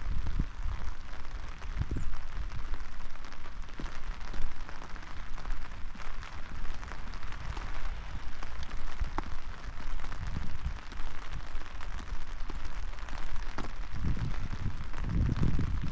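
Steady rain falling, with scattered sharp drop ticks over an even hiss, and an uneven low rumble that swells near the end.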